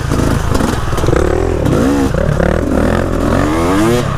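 Dirt bike engine on a trail ride, its revs climbing and dropping back several times as the throttle is worked.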